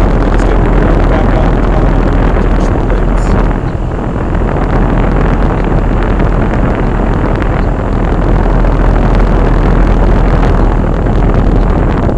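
Outdoor unit of a 2008 Carrier Performance Series heat pump running in cooling mode: a loud, steady rush of air from its condenser fan, with a strong low rumble. It dips briefly about four seconds in and drops away suddenly at the very end.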